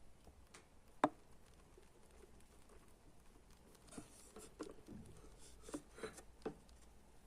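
Budgies moving about: faint, scattered clicks and scratches, with one sharp click about a second in and a cluster of soft taps later on.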